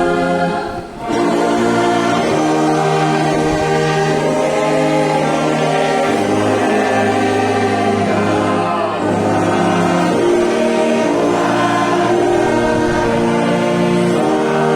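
A congregation singing a hymn together with a church orchestra in slow, held chords, with a short break between phrases about a second in.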